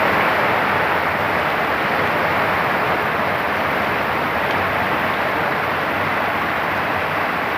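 Rain pouring down, a loud, even hiss that holds steady throughout.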